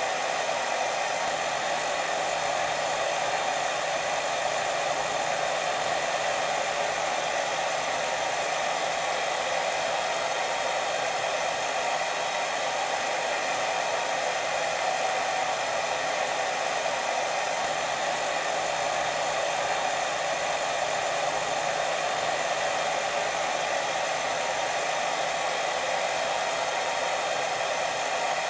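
Steady white noise for lulling a baby to sleep: an unbroken hiss, strongest in the middle range, at an even level throughout.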